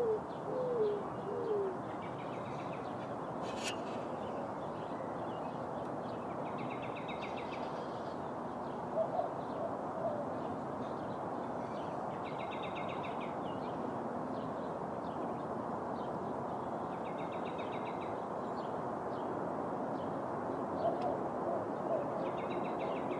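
Greater roadrunner calling with low, dove-like coos that fall in pitch, in short series near the start, around nine seconds in and again near the end, over steady wind and city background noise.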